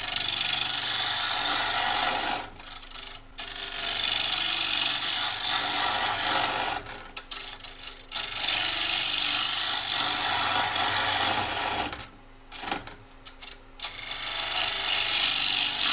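Bowl gouge cutting across the face of a spinning cherry bowl blank on a lathe to flatten it: a loud rasping hiss in several long passes, broken by short pauses.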